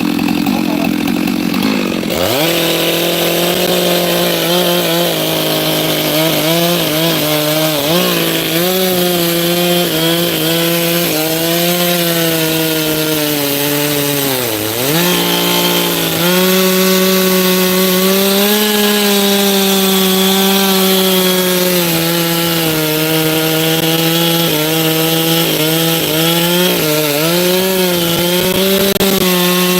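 Small petrol engine of wood-cutting machinery running hard, its pitch wavering as the load changes. It revs up about two seconds in and bogs down briefly around the middle before recovering.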